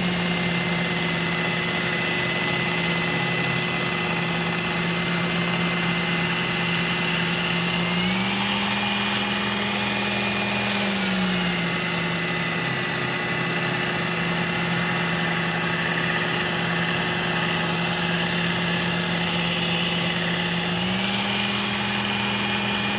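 Work Sharp Ken Onion Edition electric belt sharpener running with a Trizact abrasive belt as a blade is sharpened on it. Its motor hum is steady, and its pitch rises for a few seconds about a third of the way in and again near the end.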